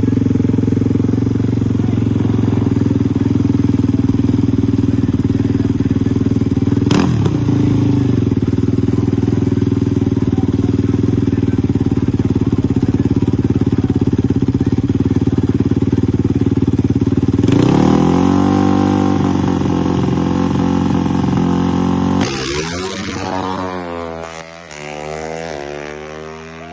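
Dirt bike engine running hard at steady high revs. About two-thirds of the way in its pitch shifts, and in the last few seconds the note sweeps up and down and fades as it backs off.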